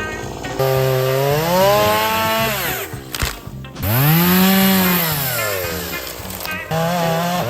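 Stihl two-stroke chainsaw revving and cutting wood, its engine pitch climbing and sagging in long sweeps as the chain takes the cut. There are two long sweeps, with a brief break between them, and a shorter one near the end.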